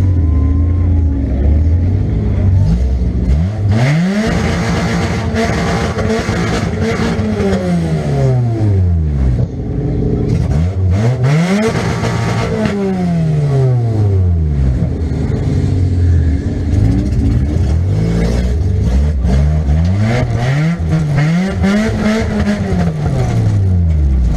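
1998 Nissan Pulsar's 1.8-litre four-cylinder engine, heard from inside the car, revving up and falling back about five times as it accelerates and backs off, idling at the start and end. Rattling and clatter run through the hardest pulls.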